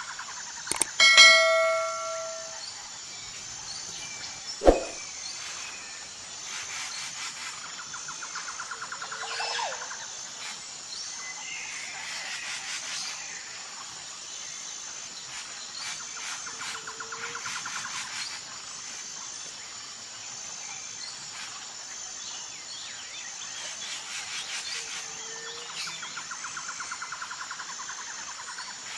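A single bell-like ding rings out and fades about a second in, followed by a sharp knock. Then comes outdoor ambience: a steady high-pitched insect-like drone with rapid trilling calls repeating every eight or nine seconds.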